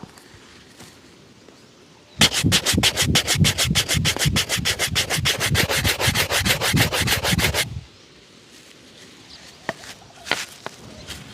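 Brisk brushing on a shoe: rapid back-and-forth strokes, about seven a second, for roughly five seconds, buffing the polish. A few light ticks of handling follow near the end.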